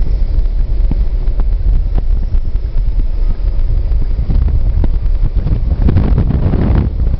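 Scania diesel engine running with a low rumble under heavy wind buffeting on the microphone, swelling louder for about a second near the end.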